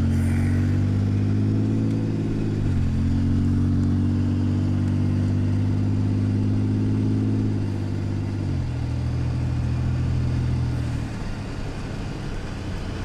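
Vehicle engine accelerating through the gears. The pitch climbs, drops at a gear change under three seconds in, climbs again and drops at a second change about eight and a half seconds in, then settles and eases off near the end.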